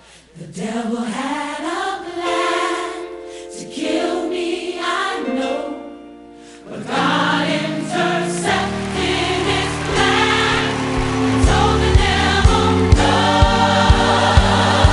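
Gospel choir singing with a band: slow, spaced sung phrases at first, then about seven seconds in the fuller arrangement comes in with bass and a steady drum beat.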